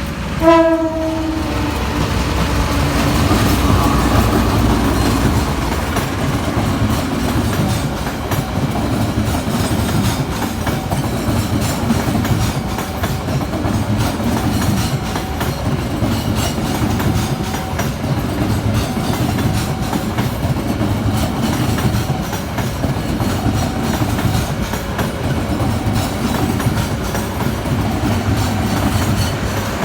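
Sawunggalih passenger train running on the rails: a short horn blast just after the start, then the steady rumble and clickety-clack of the train's wheels and carriages.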